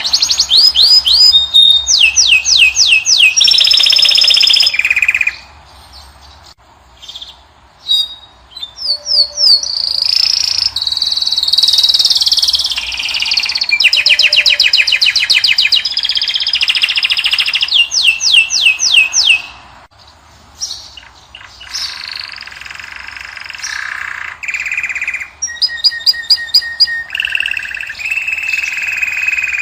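A finch singing a long, loud song of fast trills of repeated sliding notes, rattling phrases and chirps, broken by short pauses about six seconds in and about twenty seconds in.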